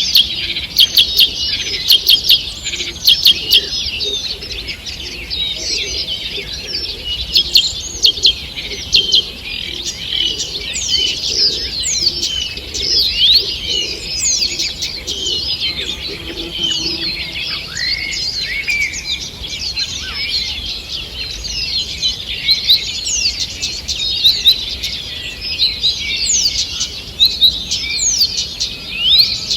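Morning birdsong chorus in a forest: several birds singing at once in dense, overlapping chirps, trills and quick whistled notes.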